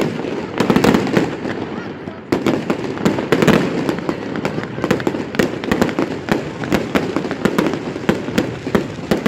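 Fireworks display: a rapid run of bangs and crackles, several a second, with heavier booms about one second and three and a half seconds in.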